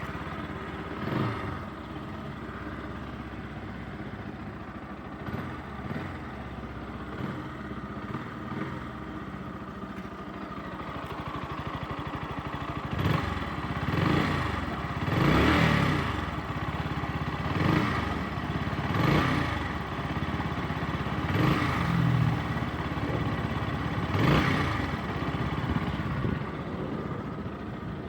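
Bajaj Pulsar NS160 fuel-injected single-cylinder engine idling steadily, then blipped about seven times in quick succession in the second half, the pitch rising and falling with each blip.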